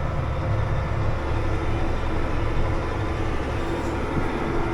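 Farm vehicle engine running steadily at low speed, a deep even rumble with no sudden events, while the vehicle is eased into position.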